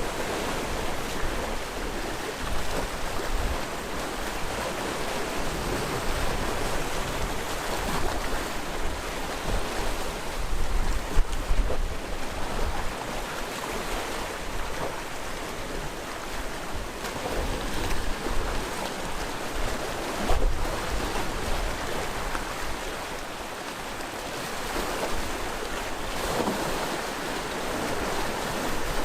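Sea waves breaking and washing over a rocky shore in a steady hiss that swells and ebbs every few seconds, with wind buffeting the microphone.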